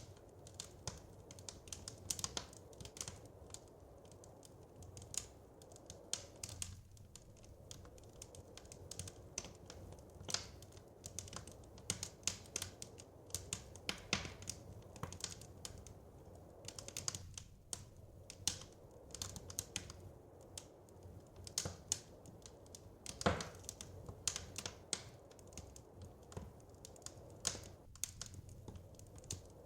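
Wood fire crackling, with irregular sharp pops and snaps over a low steady rumble; one pop about 23 seconds in is louder than the rest.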